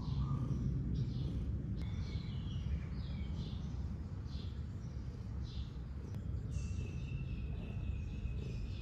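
Small birds chirping in short, repeated calls over a steady low background rumble; about two-thirds of the way through, a thin, steady high tone joins in.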